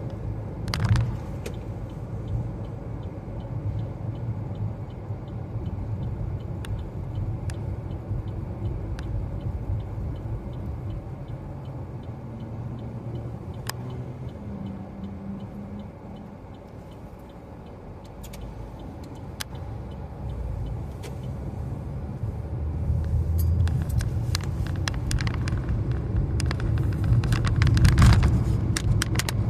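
Road and engine rumble inside a moving car's cabin, dipping a little past the middle and growing louder near the end, with scattered small clicks and rattles.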